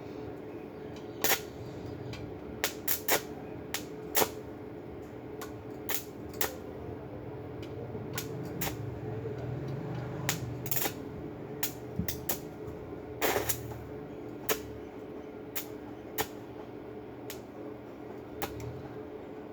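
A steady electrical hum under sharp clicks and knocks that come at irregular intervals, roughly one a second, with the loudest about a second in, about four seconds in and about thirteen seconds in.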